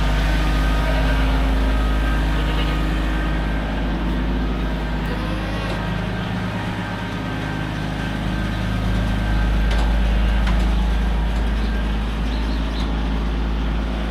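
Tractor-driven feed mixer running steadily, with a constant low engine hum.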